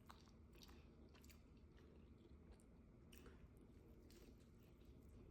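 Faint chewing of heavily breaded fried shrimp, with soft irregular crunches.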